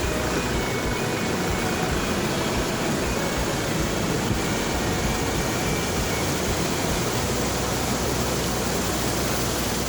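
Steady road and wind noise of a vehicle driving, an even rushing hiss that stays the same throughout.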